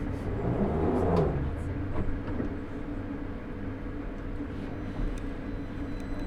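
Victoria line 2009 Stock train heard from inside, standing at a station: a steady low hum from its onboard equipment, with a brief falling whoosh about a second in.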